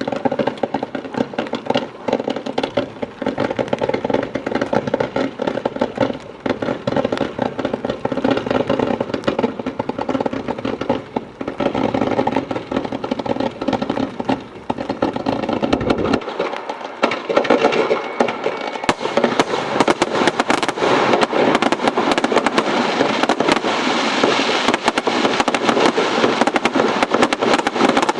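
Aerial fireworks going off in a dense, continuous barrage of bangs and crackle. The barrage thickens into a faster, sharper crackling about two-thirds of the way through.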